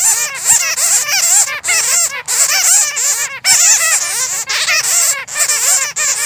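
A roost of bats squeaking and chattering: many rapid, overlapping high chirps with no break.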